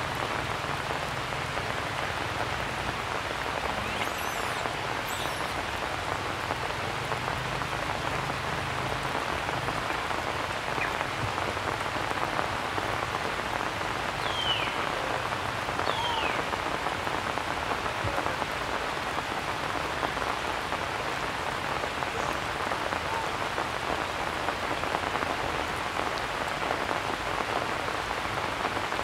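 Steady rain falling, an even hiss of drops that does not let up. About halfway through come two short high chirps that fall in pitch.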